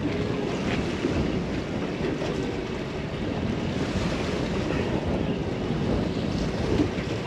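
Steady wind buffeting the microphone over water washing against a small boat's hull.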